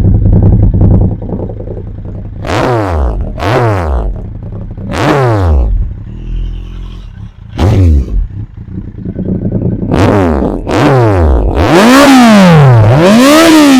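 Kawasaki Z800's inline-four engine through an Akrapovič carbon-edition exhaust, idling and blipped in about six quick throttle revs, each dropping straight back to idle. Near the end come two longer, higher revs, the loudest part.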